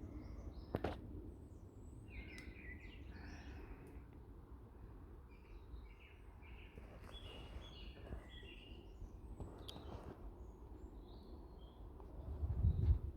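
Birds chirping on and off over a steady low background rumble, with a click about a second in and a brief louder low rush of noise near the end.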